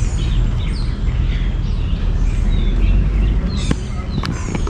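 Birds chirping and calling, many short rising and falling chirps, over a steady low rumble, with a couple of sharp clicks near the end.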